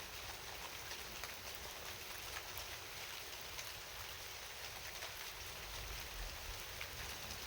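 Steady rain falling, an even hiss dotted with many separate drop strikes.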